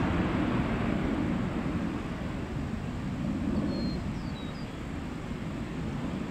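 Jet airliner rumbling at an airport, a steady low roar that eases off slightly, with a few faint high bird chirps about halfway through.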